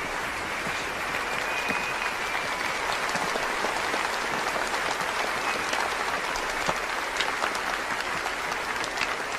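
A steady round of applause from a group of people clapping.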